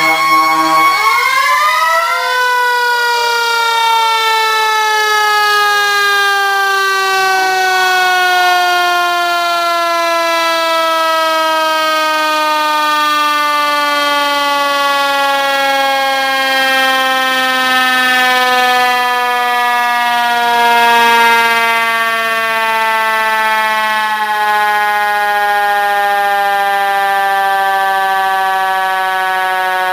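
Antique fire truck sirens winding: several pitches glide up and cross in the first couple of seconds, then the siren coasts down with a slow, steady fall in pitch that lasts the rest of the way, the long spin-down of a mechanical siren.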